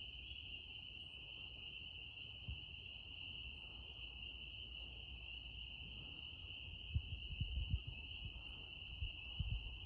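Steady chorus of insects: one unbroken high trill, with a few brief low bumps in the last few seconds.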